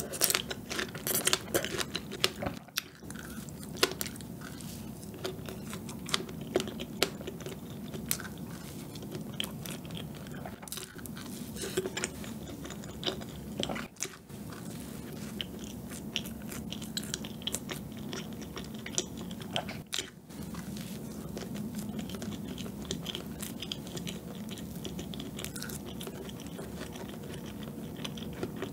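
A person biting into and chewing a strawberry-topped chocolate layer cake, with crisp crunches of the chocolate chips between the chocolate sponge and cream over wet mouth sounds. The crunching is densest in the first few seconds.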